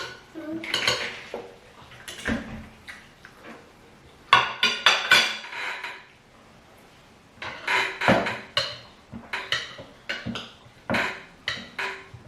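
Cutlery clinking and scraping against plates in irregular clusters, as people eat a meal of rice and fish stew.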